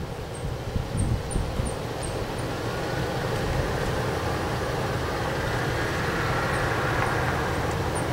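Strong wind blowing, with uneven low thumps of wind buffeting the microphone at first, then a steady rushing that builds a little after a few seconds.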